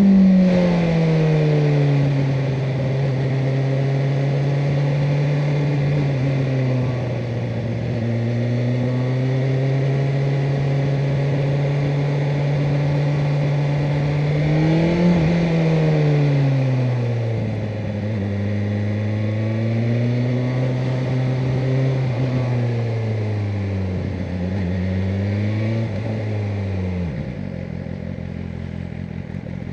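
BMW M1000R Competition's inline-four engine cruising at a steady note, with a swell in revs at the start and another about halfway through, then a few dips and short blips of throttle. About three seconds before the end the engine note falls away sharply, leaving steady road and wind noise.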